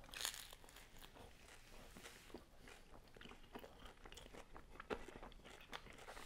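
A person chewing a bite of crispy thin-crust pizza, with faint crunches of the crust throughout and one louder crunch about five seconds in.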